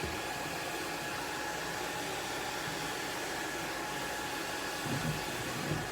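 Hair dryer blowing steadily, a constant rush of air with a faint steady motor whine.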